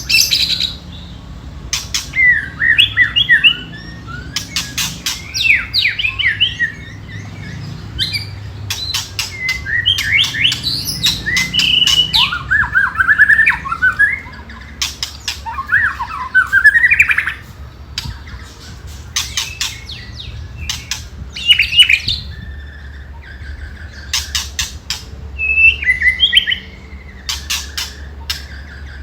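White-rumped shama (murai batu) giving repeated bursts of fast dry rattling 'ketrek' calls, mixed with short warbling song phrases and rising sweeps. This is the shama's aggressive fighting rattle, used to provoke other shamas into answering.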